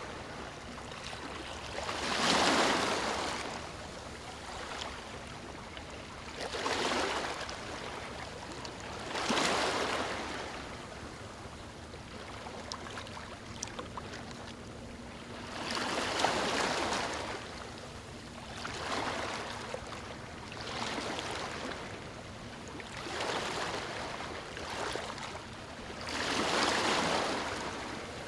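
Ocean waves breaking on a beach: a steady wash of surf that swells with each breaking wave every few seconds. The loudest breakers come about two seconds in and again past the middle.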